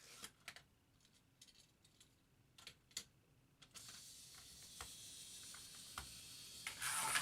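A few light plastic clicks as the die-cast Hot Wheels Corvette C7.R is set on the track. About four seconds in comes the steady hiss of its wheels rolling down the plastic track, with small ticks at the track joints, growing louder near the end.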